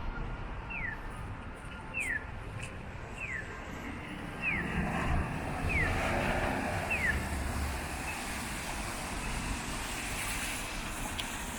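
Steady hiss of rain and traffic on a wet city street, swelling louder about halfway through. Over it, six short falling chirps repeat evenly about every second and a quarter, then stop.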